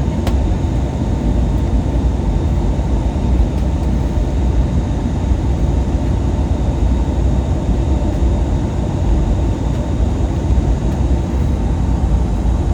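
Steady engine and airflow noise inside the cabin of an Airbus A320neo in flight, its Pratt & Whitney PW1100G geared turbofans giving a low rumble with a steady whine on top.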